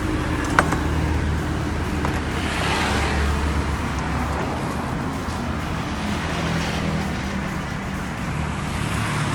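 Steady low motor-vehicle running noise, with one sharp click about half a second in.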